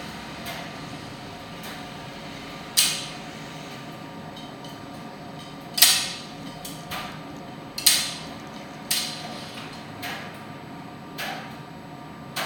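Primus tumble dryer running with a steady hum, and about seven sharp knocks at irregular intervals, one to three seconds apart.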